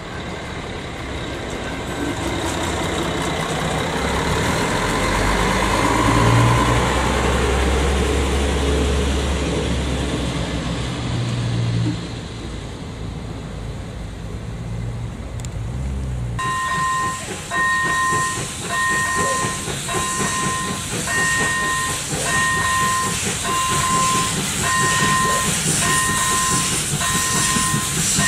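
A passenger train passes over a level crossing with a deep rumble that builds and then fades. About sixteen seconds in, a level-crossing warning signal takes over, sounding a two-pitch electronic ding about once a second over the hiss of an approaching steam locomotive.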